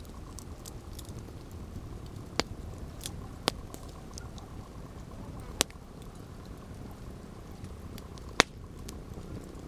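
Campfire burning with a low steady rumble and scattered small crackles. Four sharp pops stand out, the loudest near the end.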